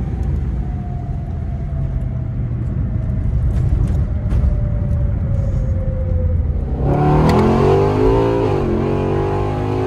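Lexus IS F's 2UR-GSE V8 through PPE headers and a Hayward & Scott X-pipe exhaust, running at a steady low drone, then going to wide-open throttle about seven seconds in. The exhaust note gets louder and rises in pitch, dips briefly once, climbs again, and falls away near the end.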